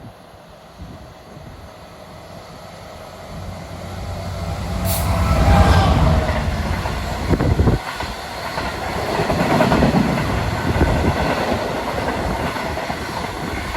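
Freight train passing close by: the locomotive's engine rumble builds and peaks about six seconds in, then the wagons follow with a steady clatter of wheels over the rail joints.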